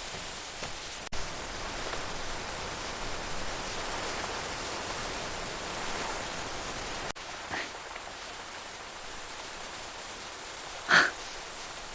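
Steady rushing ambience of flowing river water, with a faint short tap about halfway through and a brief, brighter clink near the end.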